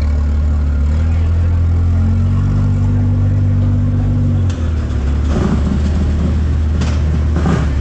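Engine of a single-turbo BMW M3 running at low speed while the car creeps forward, a steady deep drone. About four and a half seconds in the note changes and turns rougher, with short sharp bursts on top.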